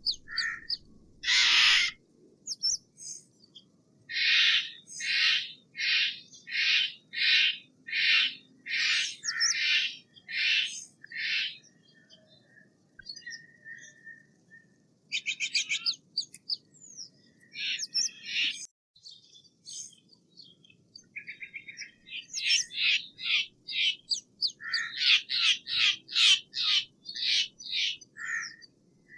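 Steller's jay giving long runs of harsh, repeated calls, about two a second. The calls fall in two runs, with a short rapid rattle between them.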